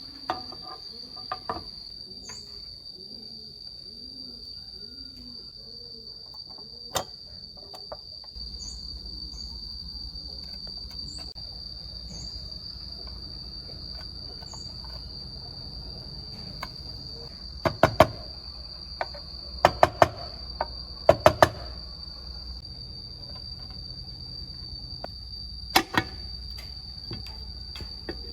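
Steady high-pitched trilling of crickets, with a few sharp clicks and knocks from hand work, bunched in the second half. A low hum comes in about eight seconds in.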